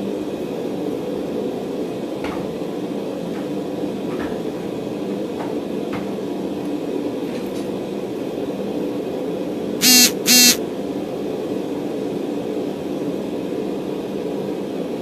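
A forge running with a steady rushing noise while steel heats in it. About ten seconds in, two short, loud, high-pitched beeps sound a moment apart.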